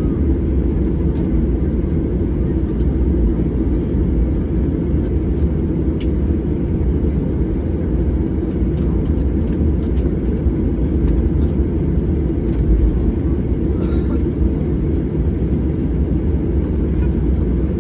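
Steady low rumble inside an airliner's cabin as it taxis after landing, with a few faint clicks and knocks.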